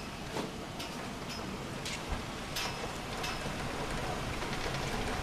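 Steady rush of heavy, wind-driven thunderstorm rain, with a few sharp ticks scattered through it, about one every half second, and a single low thump about two seconds in.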